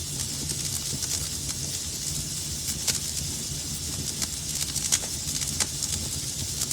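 Wood fire burning in a fireplace, crackling: a steady hiss and low rumble with irregular sharp pops and snaps, several a second, a louder pop about five seconds in.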